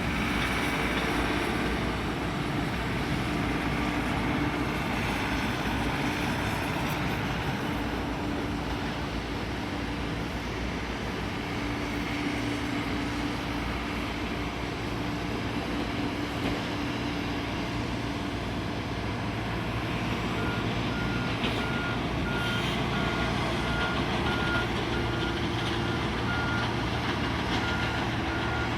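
Steady vehicle engine noise with a low hum. About two-thirds of the way in, a reversing alarm starts beeping at an even pace, a little over one beep a second.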